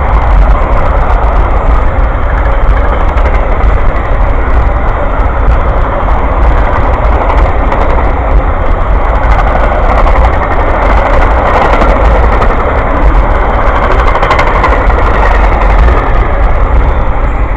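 Amtrak Auto Train passing close by: a loud, steady rolling rumble of wheels on the rails that holds throughout, with a deep low drone under it.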